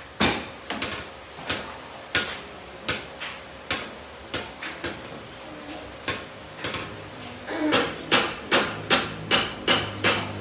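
Hammer blows on metal car parts during suspension repair. They land irregularly at first, then about three-quarters of the way in become a fast, steady run of loud strikes, about three a second.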